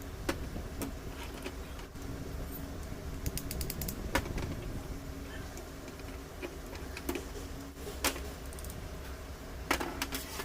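Scattered sharp metallic clicks and clinks of hand tools and parts being handled, including a quick rattle of clicks about three and a half seconds in, over a steady low rumble.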